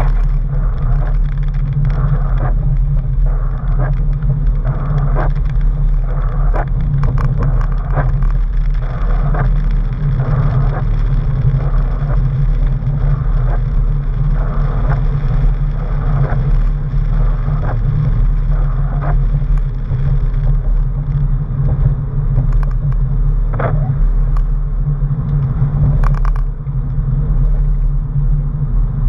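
Porsche 997's flat-six engine running at a steady drone while the car drives, heard from inside the cabin, with scattered light clicks and knocks over it.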